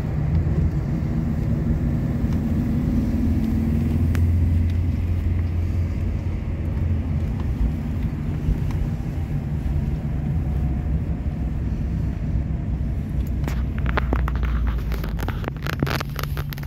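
Alfa Romeo flat-four boxer engine running at parade pace, heard from inside the cabin as a steady low rumble. A run of sharp clicks comes near the end.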